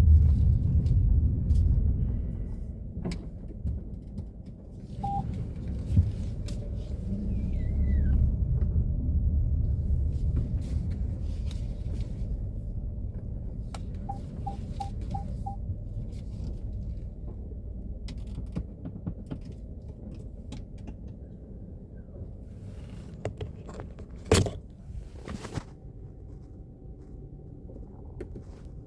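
Low rumble of a 2017 Peugeot 3008, loud at first and fading over the first few seconds, with scattered clicks and a sharp click about 24 seconds in. A short falling squeak sounds about seven seconds in, and a quick run of four ticks comes near fifteen seconds.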